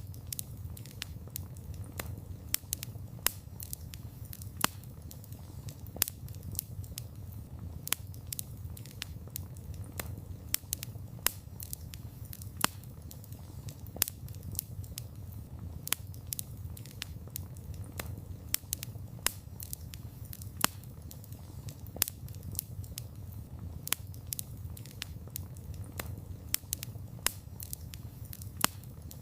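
Wood fire crackling: irregular sharp pops and snaps several times a second over a steady low rush of the burning fire.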